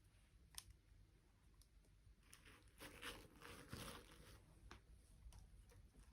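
Faint handling of toy packaging: scattered small clicks, with a crinkling rustle for about a second and a half in the middle.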